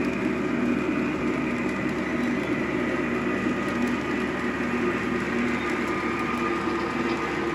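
Lionel Legacy ES44AC O-gauge model locomotive's onboard sound system playing a diesel engine sound, running steadily with a few held tones.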